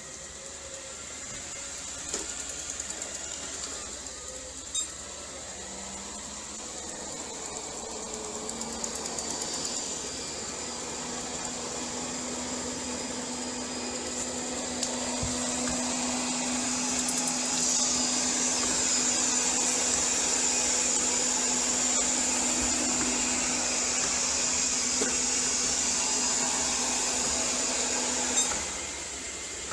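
ILIFE robot vacuum cleaner running, a steady machine whir with a high whine. It grows louder through the first half, a low hum holds through most of it, and it drops off shortly before the end.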